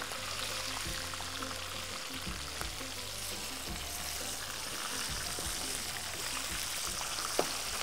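Chicken pieces sizzling as they fry in oil in a frying pan, a steady hiss, with the wooden spatula now and then knocking against the pan as they are turned. Background music runs underneath.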